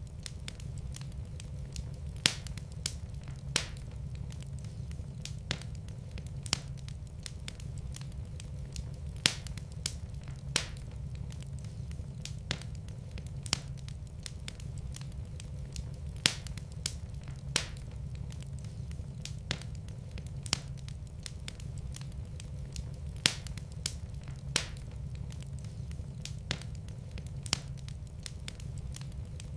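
Wood fire in a fireplace crackling, with sharp irregular pops about once or twice a second over a steady low rumble of the flames.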